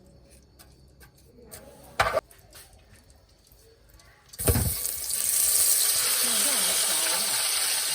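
A knock about two seconds in. Then, about halfway through, food goes into hot oil in a pan and starts sizzling, a steady hiss that keeps going.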